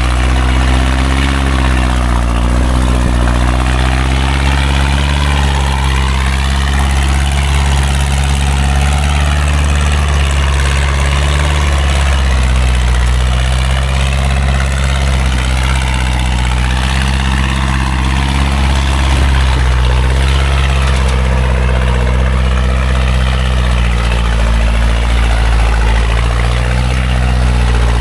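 Engine of a small logging truck loaded with acacia wood, running steadily as it climbs a muddy slope, a continuous low drone whose pitch rises and dips slightly.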